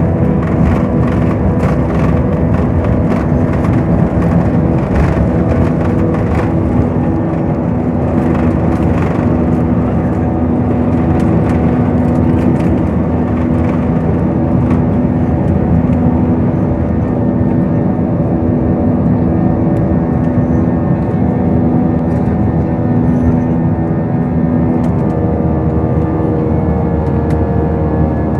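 Airliner engines running, a loud steady drone with several held tones. Rattling clicks come through the first half, and some of the tones step in pitch near the end.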